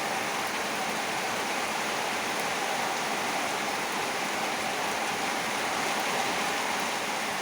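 Heavy rain falling steadily, an even, unbroken hiss with no single drops standing out.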